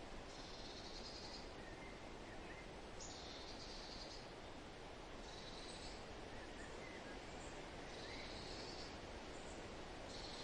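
Steady wind rustle through forest foliage, with a bird repeating a short, high, buzzy trill about every two and a half seconds and a few faint short chirps between them.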